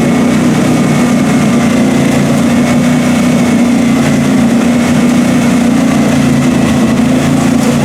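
Mud-bog truck engine running loud and steady, holding one pitch with no revving up or down.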